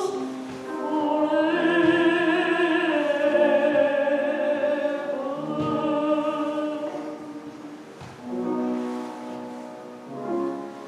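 Sung music: voices holding long notes over accompaniment, growing quieter over the last few seconds.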